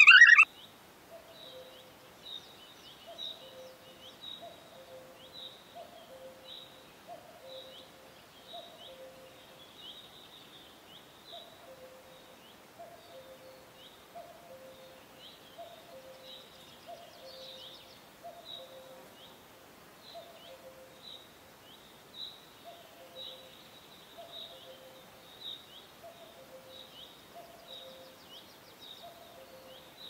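Birds calling: short high chirps repeat over a lower two-note call that recurs about once a second, both going on evenly. A brief loud burst comes at the very start.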